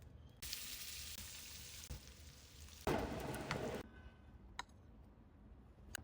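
Food sizzling in hot oil in a pan. The sizzle starts suddenly about half a second in, swells louder near three seconds and cuts off abruptly just before four seconds, followed by a few light clicks.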